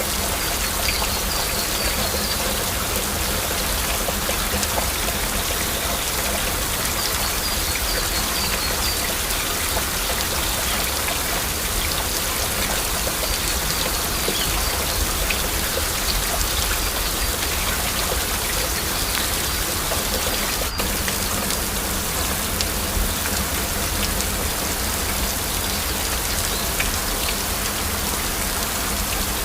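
Steady heavy rain, a dense even hiss with individual drops ticking sharply through it.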